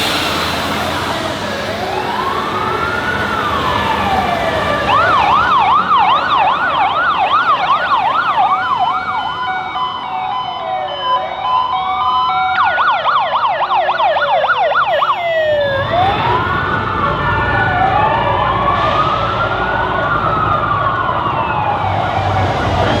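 Emergency-vehicle sirens going by, slow rising-and-falling wails that switch twice to a rapid yelp, with two sirens overlapping near the end. Engine rumble grows in the second half.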